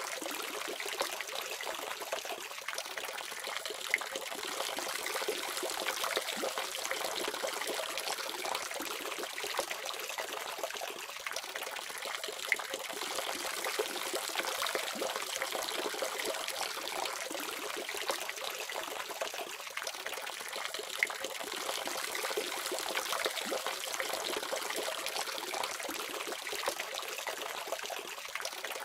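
Water running steadily from a faucet, a continuous splashing stream with small spatters.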